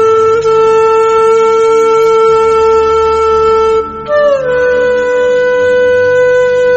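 Background music: a flute holding long, steady notes over a soft low accompaniment. About four seconds in, the note breaks off briefly and a new one slides down and holds.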